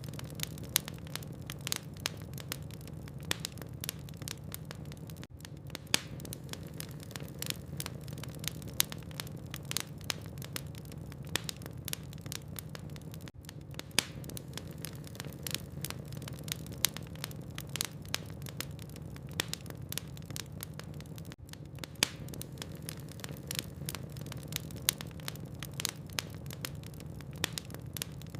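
Wood fire burning in a fireplace: irregular crackles and a few sharp pops of the logs over a steady low rumble of the flames.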